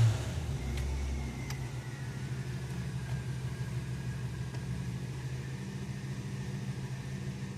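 1983 Buick Park Avenue's engine on a warm restart: it flares loudest right after catching, eases down over the first second or so, then settles into a steady idle.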